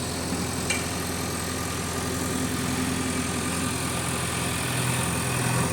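Heavy diesel engine running steadily at a low, even speed, with one brief click about a second in.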